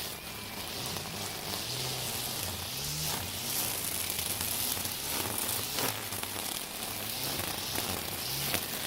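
Battery-powered Makita 40V string trimmer cutting dense weeds with nylon line: a steady hissing of the spinning line through the grass, the motor's pitch rising and falling as it meets the growth, with a few sharp ticks of stems or debris striking.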